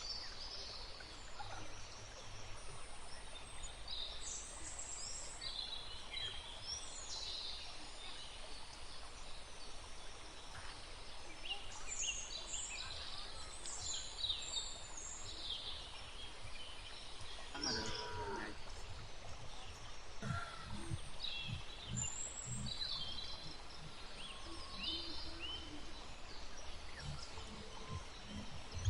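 Outdoor ambience: small birds chirping and calling on and off over a steady low rumble. There is one lower, louder call about two-thirds of the way in, followed by soft low thumps.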